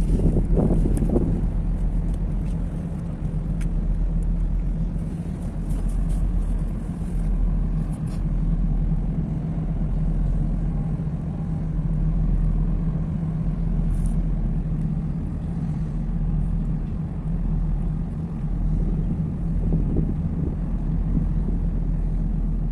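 Deep, steady engine drone and rumble of a large dual-fuel container ship under way, with a brief gust of noise in the first second or so.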